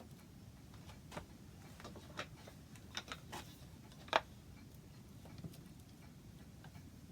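Scattered light wooden taps and clicks, about six at irregular spacing, the loudest about four seconds in, over a faint steady hum: small pieces and tools being handled on a workbench.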